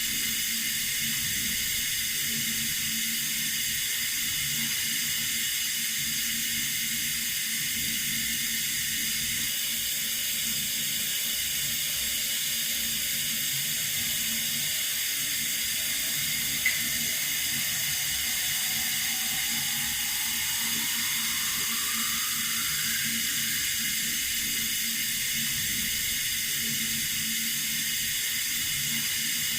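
Tap water running steadily, a constant hiss, with one brief click a little past the middle.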